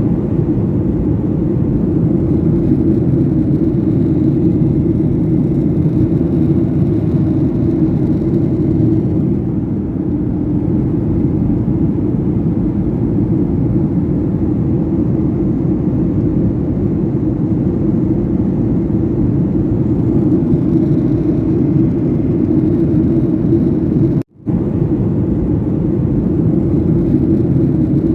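Airliner cabin noise in flight: a loud, steady low drone, cut off for a moment about 24 seconds in.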